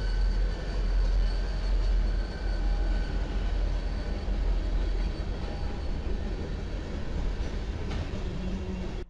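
Freight train led by WAMX diesel-electric locomotives passing close by: a deep, steady engine rumble with the noise of wheels rolling on the rails, easing off slightly toward the end.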